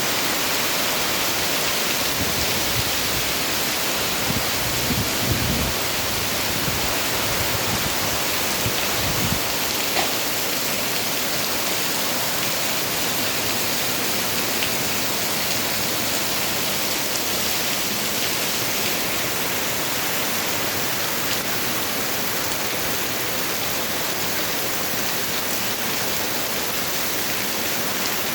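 Heavy rain falling steadily, a constant dense hiss, with a few low rumbling gusts of wind between about four and nine seconds in.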